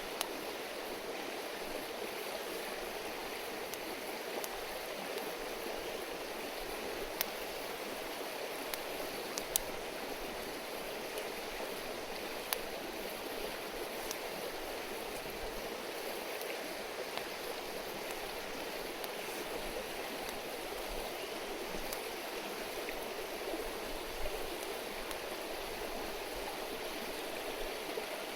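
A river stream running over rocks, a steady rushing murmur, with a few sharp pops scattered through it.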